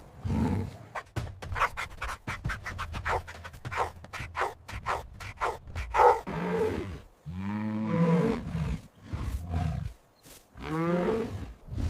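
Big cat roaring: a run of short, quick grunts, then several longer growling calls that bend in pitch.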